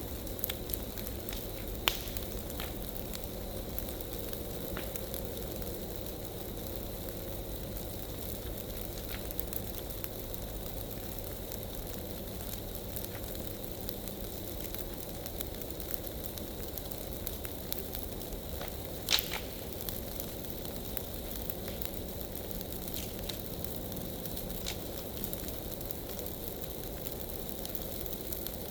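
Large bonfire of dry leaf piles burning with a steady rumble and hiss and scattered crackles. Two sharp pops stand out, about two seconds in and, louder, about nineteen seconds in.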